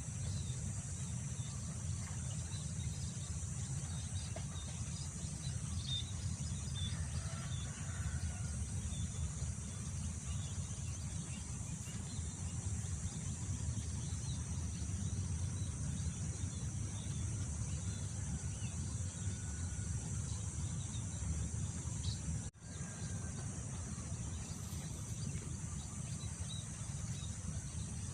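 Wind rumbling on the microphone over open fields, with a steady high drone of insects and scattered faint bird chirps. The sound cuts out for an instant about two-thirds of the way through.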